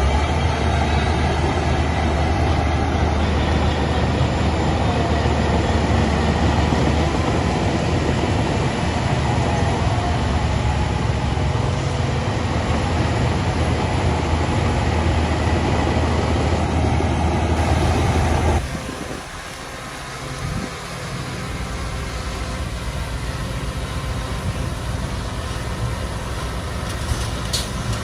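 Heavy diesel earthmoving machinery running steadily. About two-thirds of the way through, the sound cuts abruptly to a quieter engine.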